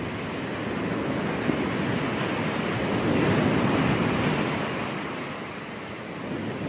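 Ocean surf washing onto a beach, one wave swelling to a peak about halfway through and then easing off, with some wind on the microphone.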